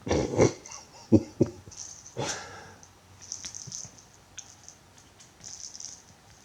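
Cats playing with a toy mouse: a loud scuffle at the start, two sharp thumps about a second in, then lighter scratching and rustling.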